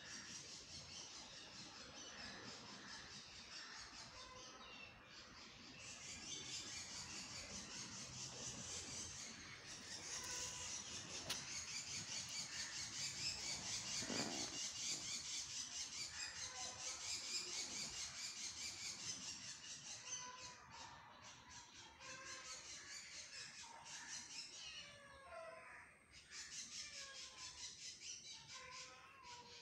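Birds calling and chirping in the background over a steady high hiss.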